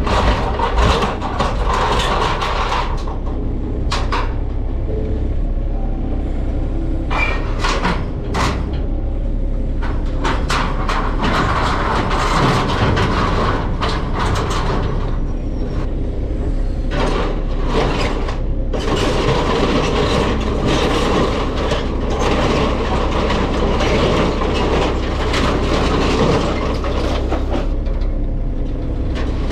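A machine engine running steadily, with many knocks and clanks over it.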